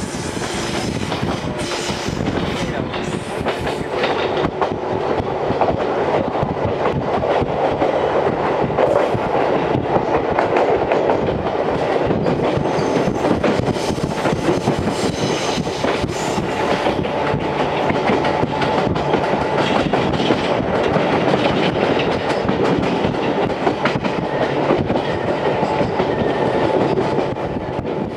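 Series 711 electric train running on the line, heard from inside the car through an open window: steady wheel-on-rail noise with the rhythmic clickety-clack of rail joints, growing a little louder over the first several seconds.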